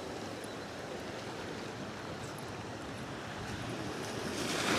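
Steady wash of sea surf and wind, swelling a little louder near the end.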